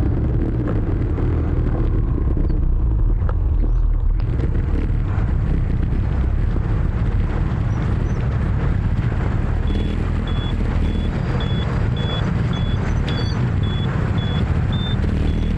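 Motorbike traffic noise heard from a moving scooter: a steady low engine and road rumble. From about ten seconds in, a high electronic beep repeats about twice a second.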